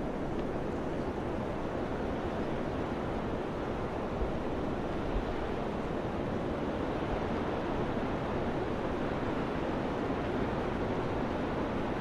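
Wind blowing steadily, an even rushing noise. A couple of brief low thumps of wind on the microphone come about four and five seconds in.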